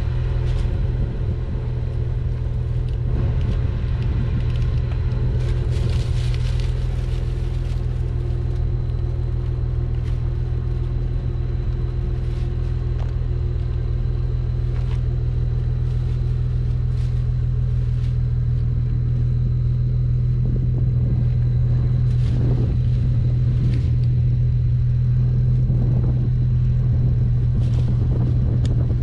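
Infiniti G37's 3.7-litre V6 engine idling with a steady low rumble and no revving, with a few faint clicks here and there.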